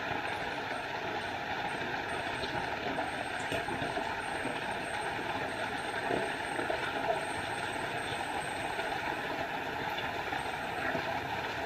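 Small forest waterfall: a steady rush of falling, splashing water.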